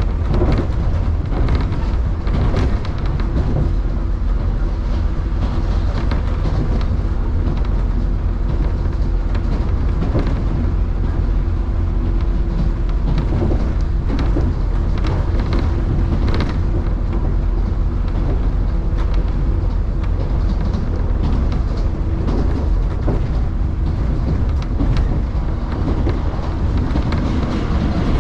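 Electric train running at speed between stations, heard from on board: a steady low rumble of wheels on rail with a faint motor hum, and scattered clicks as the wheels cross rail joints.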